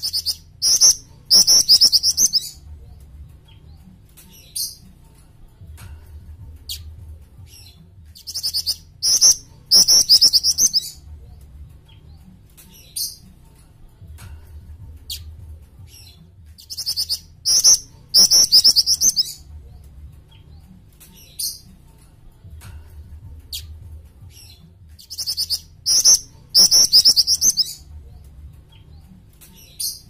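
Jing-jing (black-winged flycatcher-shrike) singing. It gives four bursts of rapid, high chirping trills about eight seconds apart, with single short high notes in between.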